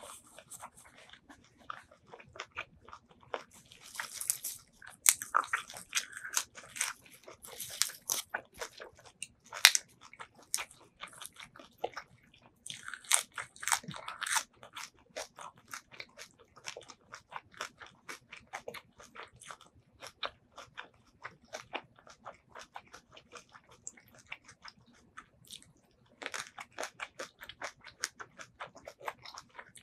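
A person chewing and crunching food close to the microphone, with wet mouth clicks. Louder crunching bites come in clusters several times.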